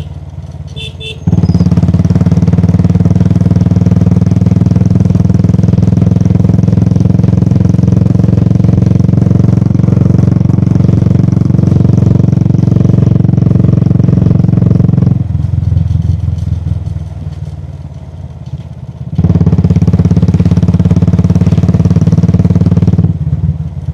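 Royal Enfield Classic 350's single-cylinder engine pulling steadily under throttle while riding. It eases off for a few seconds about 15 s in, picks up again, and eases off once more near the end.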